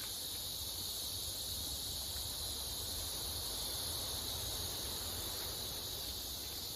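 A steady chorus of insects buzzing in the vegetation, holding high, even tones without a break, over a faint low rumble.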